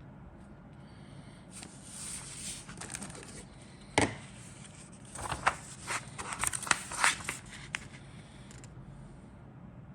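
Plastic kit packaging being handled: rustling and crinkling, a sharp click about four seconds in, then a flurry of crackles and clicks.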